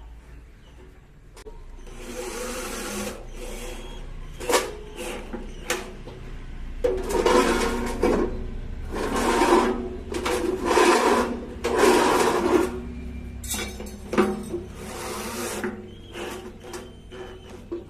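Repeated rasping, scraping strokes, about ten of them, each lasting half a second to a second, loudest in the middle stretch, over a faint low hum.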